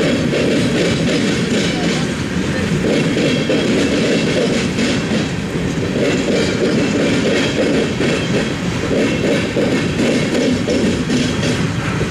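Freight train of tank cars and boxcars rolling past, a loud, steady rumble of steel wheels on rail.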